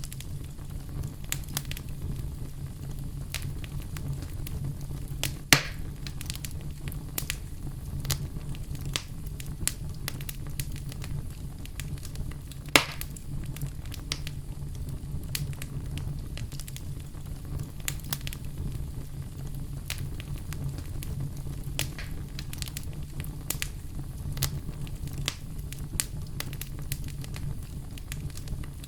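Wood bonfire burning with a steady low rumble and frequent crackles, with two sharp, louder pops about 5 seconds and 13 seconds in.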